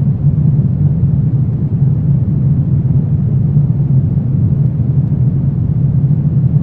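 Steady, loud, low rumbling drone of a horror ambience track, with no separate events standing out.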